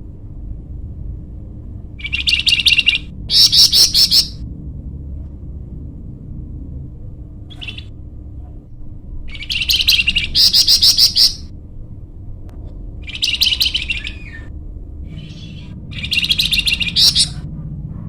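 Nightingale (the 'flamboyan' of Indonesian bird keepers) singing loud phrases of rapid, repeated notes, each about one to two seconds long, with short pauses between them, over a steady low hum.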